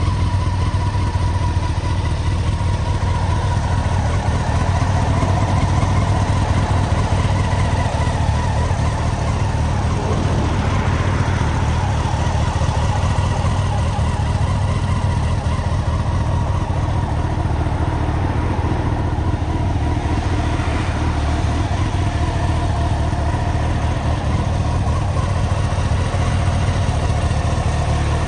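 Honda CBR954RR's inline-four engine idling steadily through an aftermarket full titanium exhaust system.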